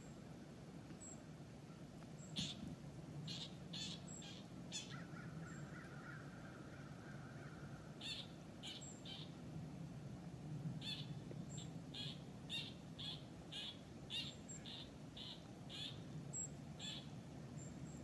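A bird calling: a series of short, sharp call notes in irregular groups, ending in a run of about two notes a second near the end.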